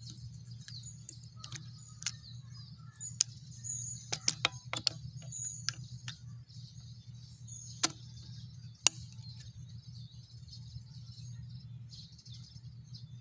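Small birds chirping and twittering quietly in the background over a steady low hum, with a scattering of short, sharp clicks in the middle of the stretch.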